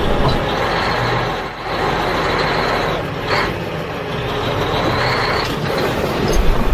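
A truck running, a steady noisy rumble that dips briefly about a second and a half in.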